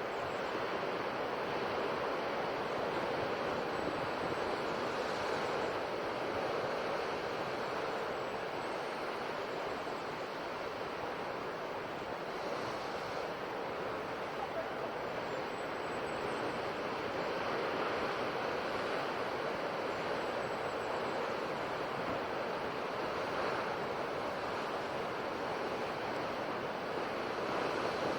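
Ocean surf washing on a shore in a steady wash of noise, swelling and easing gently every few seconds.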